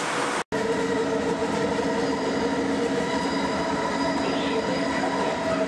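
Kuala Lumpur LRT train running: a steady rumble and rush with several steady whining tones from the drive and wheels. The sound cuts out for an instant about half a second in.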